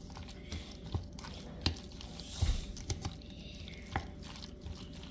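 Macaroni salad dressed with mayonnaise being stirred in a bowl: wet squishing, with a sharp knock of the utensil against the bowl about once a second.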